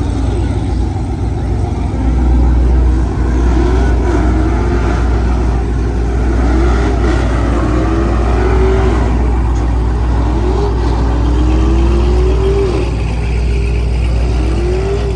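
Car engines revving, the pitch rising and falling again and again over a steady deep rumble.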